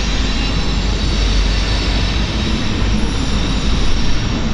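Freight train rolling past close by: a loud, steady rumble and rush of wheels and cars on the rails.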